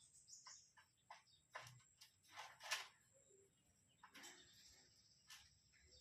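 Near silence with scattered faint clicks and rustles, the sharpest one a little under three seconds in; no dove cooing is heard.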